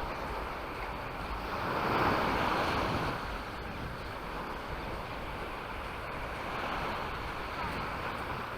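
Surf washing onto a beach, swelling once about two seconds in, with wind rumbling on the microphone.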